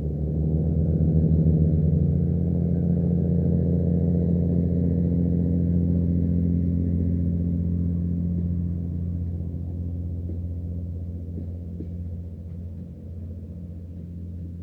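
Diesel engine of a repair train passing by, a deep steady running note that is loudest about a second and a half in and then slowly fades as the train moves away.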